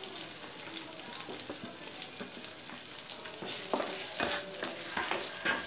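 Boiled potato cubes sizzling as they land in hot ghee in a kadhai, with a wooden spatula scraping the pan and several sharp knocks of spatula and potato pieces against the metal, more of them in the second half.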